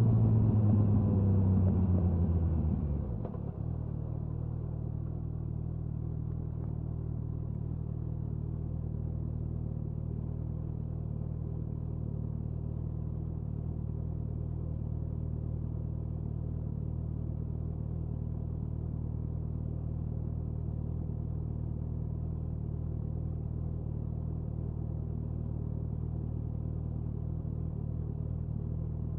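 Suzuki Hayabusa inline-four engine and exhaust: revs fall as the bike slows for about three seconds, then drop suddenly to a steady idle.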